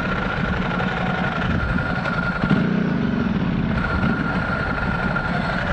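Motorcycle engine idling steadily, heard through a helmet-mounted microphone, with a brief swell in engine pitch around the middle.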